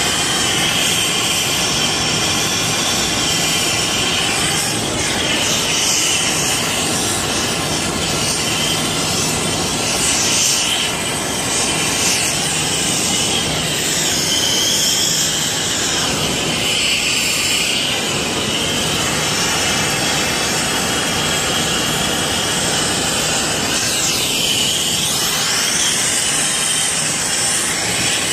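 Steady, loud hiss of rushing gas, with slow sweeping shifts in tone around the middle and again near the end.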